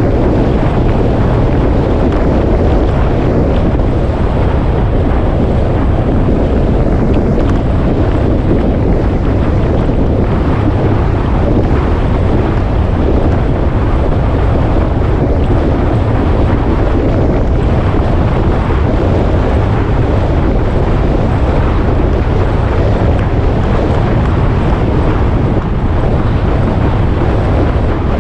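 Wind rushing over the microphone of a moving motorcycle: a loud, steady rush that covers the bike's running noise.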